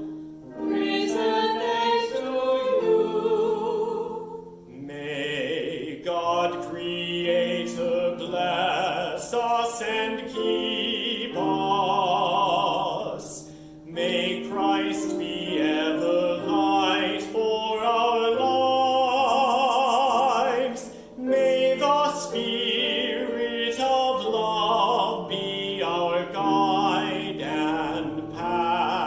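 Singing with a wide vibrato over steady held accompaniment chords: a sung hymn.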